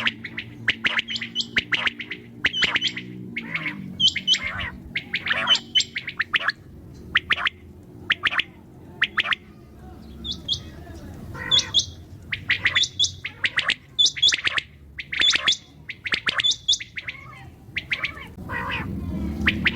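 Common quail calling: many short, sharp, high chirps repeated several times a second in irregular clusters, over a low hum that fades after about three seconds and returns near the end.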